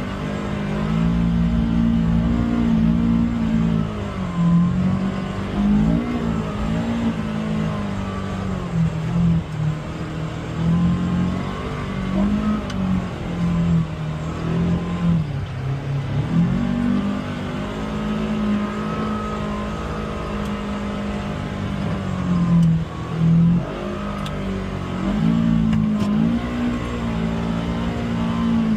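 Polaris Xpedition UTV engine running on the trail under changing throttle, its note rising and falling again and again as it speeds up and eases off.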